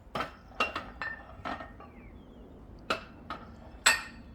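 Weight plates being loaded onto a barbell, clanking and clinking against each other and the bar: a quick run of metal clinks in the first second and a half, then a few more, the loudest a little before the end.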